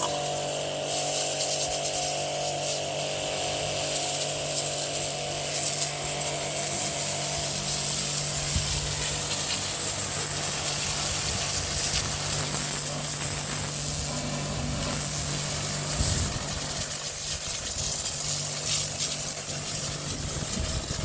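Pressure washer running and spraying water against a wall: a steady motor hum under a loud hiss of spray, starting abruptly at the outset.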